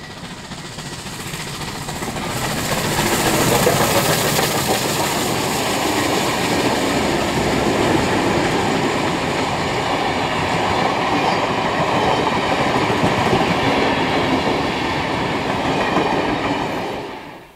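Passenger train hauled by steam locomotive 3801 with diesel locomotives 4201 and 4501 passing close by, its wheels clattering over the rails. It gets louder over the first three seconds as it approaches, holds steady as the locomotives and carriages go past, and cuts off suddenly near the end.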